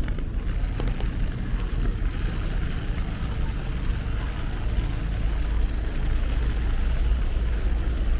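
Steady rumble of city street traffic under an even hiss of rain, with a few faint ticks of drops.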